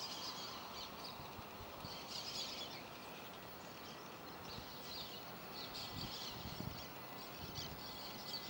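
Birds chirping in short repeated bursts over a faint, steady background hum.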